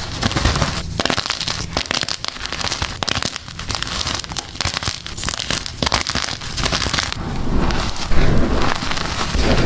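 Gym chalk being crushed and crumbled, a dense run of crunchy crackles that grows louder about eight seconds in.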